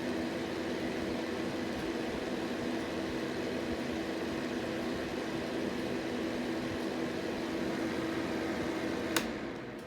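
Fine Elements upright fan heater running on its cool, fan-only setting: a steady whir of moving air with a low hum. It is switched off with a sharp click about nine seconds in, and the fan begins to spin down.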